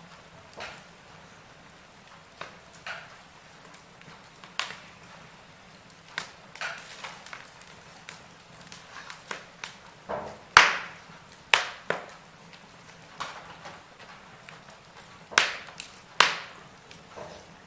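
Wood fire crackling in a fireplace: irregular sharp pops and snaps over a faint background hiss, the loudest pop a little past halfway and two more strong ones near the end.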